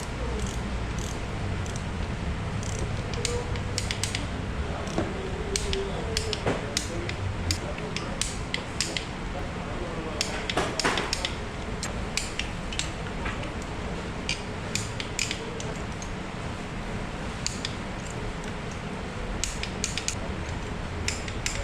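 Metal hand tools clicking and clinking as bolts are worked with a wrench, in scattered short clicks over a steady low hum.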